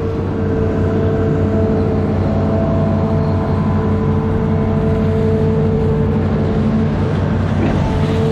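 Amphibious excavator's engine running steadily at a constant pitch, with a faint short sound near the end.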